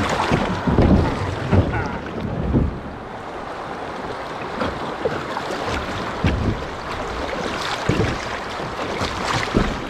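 Wind buffeting the microphone over rushing river water, with irregular low thumps.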